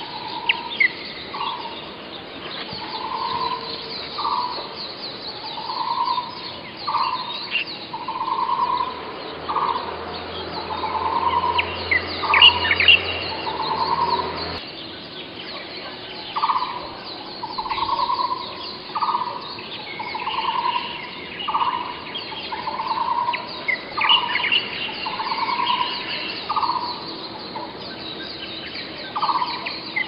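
Several birds singing. One bird repeats a two-note call, a short rising note followed by a longer swelling note, about every second and a half. Scattered higher chirps from other birds sound over it, and the repeating call breaks off briefly about halfway through.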